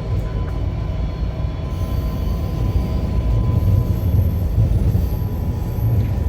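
Electric city tram running along its rails: a steady low rumble of wheels on track with a thin steady tone, joined about halfway through by a high whine.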